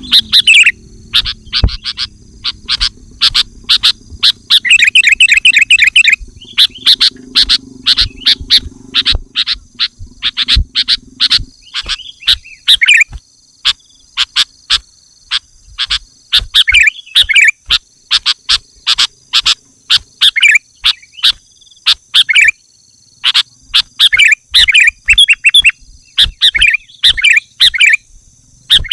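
Sooty-headed bulbul calling: quick series of short, sharp call notes broken by warbling phrases, over a steady high whine.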